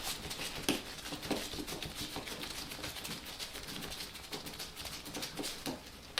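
Rapid small clicks and scrapes of a screwdriver working on the metal screws of a ceiling fan's canopy, with sharper clicks about a second in.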